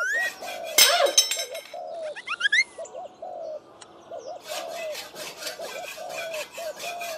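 Birds calling, with a dove's low coo repeating about twice a second. There is a sharp, bright burst about a second in, a few quick rising chirps a little later, and dense high chirping in the second half.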